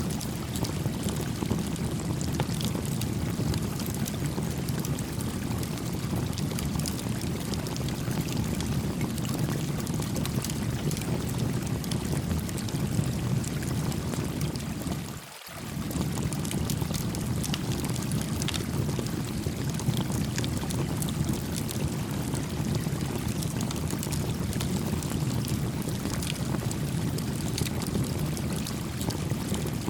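A creek's steady rushing flow with the scattered small pops and crackles of a campfire over it. The sound dips briefly about halfway through.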